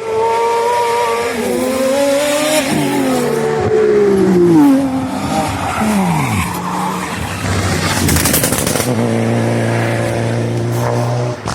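Racing car engines run hard, their notes gliding down in pitch over the first several seconds. Later comes a steady held engine note that cuts off suddenly near the end.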